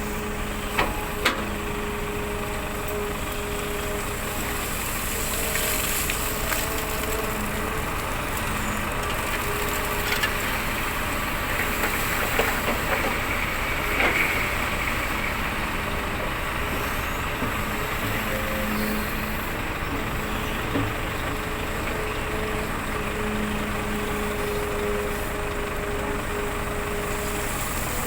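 Hitachi Zaxis hydraulic excavator's diesel engine running steadily as it works, with a few sharp knocks about a second in.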